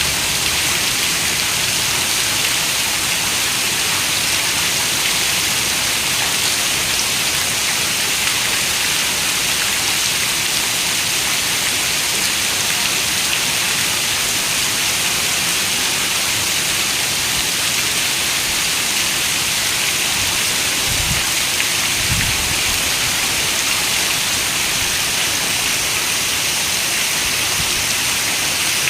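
Steady rain, a dense, even hiss of many drops. About two-thirds of the way through come two brief, faint low thumps.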